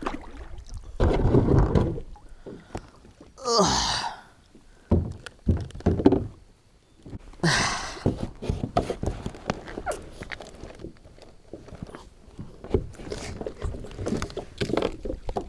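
Kayak and paddle handling on the water: irregular knocks and thunks against the plastic hull, with water sloshing and splashing. There is a louder rush of water noise about a second in and a brief squeaking scrape just before the four-second mark.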